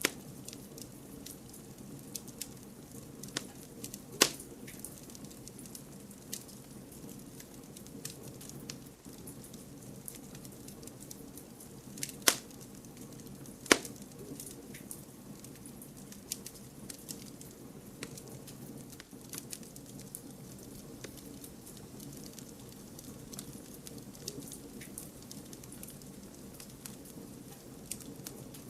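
Campfire burning: wood crackling with frequent small pops over a steady low rumble of flame, and three louder sharp pops, about four, twelve and fourteen seconds in.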